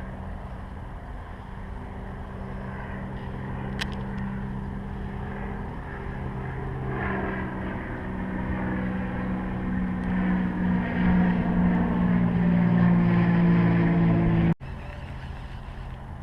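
An engine running with a steady hum that gradually grows louder and shifts in pitch, then cuts off abruptly near the end.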